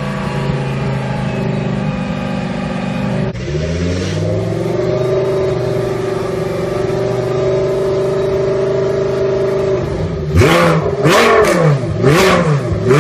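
Audi R8 LMS Ultra race car's 5.2-litre V10 running at a steady speed. A few seconds in the engine note drops suddenly, then eases up and holds steady. Near the end the engine is revved in several quick throttle blips, the revs rising and falling roughly every half second.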